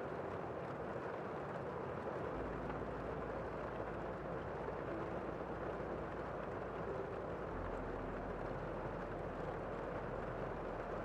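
Steady rain heard from indoors, a muffled, even patter without single drops standing out. A faint low rumble sits underneath from about two seconds in.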